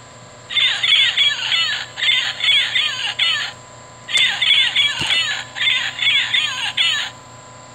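Sound chip in a Wild Republic Audubon plush blue-fronted Amazon parrot playing a recorded blue-fronted Amazon parrot call through its small speaker. The harsh, chattering squawks play twice, each run lasting about three seconds. There is a click about five seconds in.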